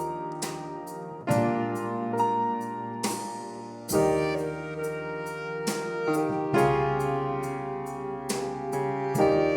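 A swing band playing: sustained chords with piano prominent, over a steady beat of sharp strokes, with fresh full-band attacks about a second in and again about four seconds in.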